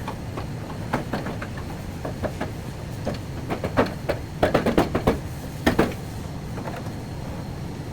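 An irregular run of sharp knocks and taps over a steady low hum, coming thicker and louder about four to six seconds in.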